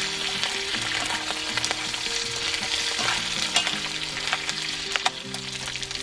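Shrimp shells deep-frying in shrimp oil, a steady crackling sizzle with many small pops, while tongs stir them around the pan; this is the shells crisping into shrimp chips.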